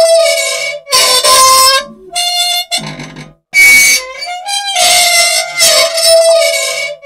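An old unoiled machine squealing loudly in long, reedy squeaks with short breaks between them, in a cycle that repeats about every five seconds, with one shorter, higher squeak about three and a half seconds in. The uploader takes the squealing for a want of oil.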